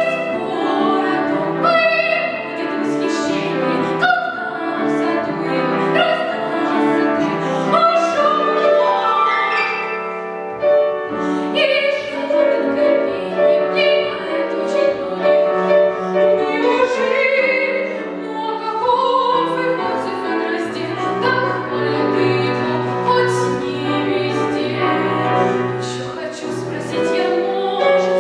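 Child singer of about 11–12 singing a classical, operatic-style song with piano accompaniment.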